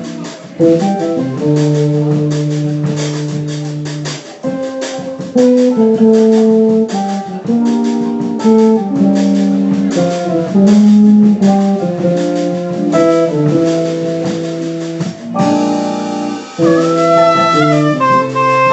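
Small jazz group playing a slow bossa nova. A held melody line changes note every second or so over guitar and light, steady percussion.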